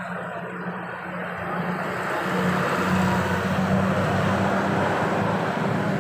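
Road traffic: a vehicle engine running with a steady hum and tyre and road noise, growing louder about two seconds in.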